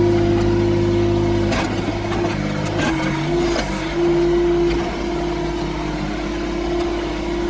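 Yanmar B22 mini excavator's diesel engine running while digging, its pitch shifting a few times as the load changes, with a couple of brief clanks. The footage is sped up to double speed, so the engine sounds higher and faster than in life.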